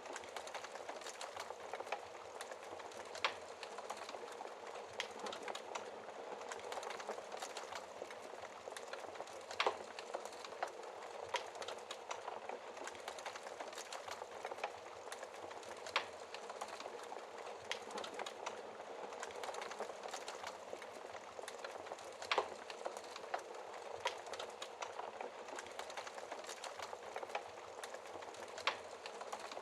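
Wood fire crackling: a steady hiss dotted with many small crackles, and a sharper pop about every six seconds.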